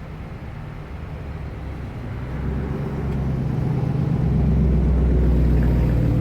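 A motor vehicle's engine running with a low, steady hum that grows louder from about two seconds in.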